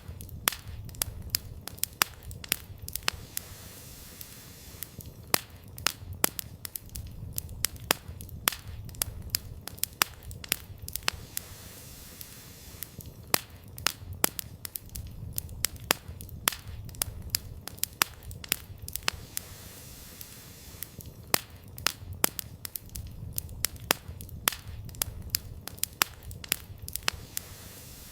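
Campfire firewood burning, with frequent sharp irregular pops and crackles over a low rumble of the flames.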